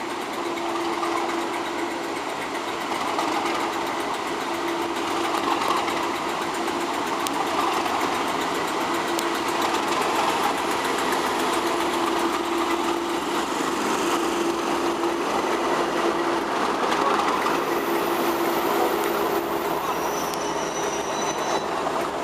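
British Rail Class 37 diesel-electric locomotive running as it pulls in slowly, with its English Electric V12 diesel engine giving a steady drone and a low hum that comes and goes. Thin high squeals start near the end as it slows.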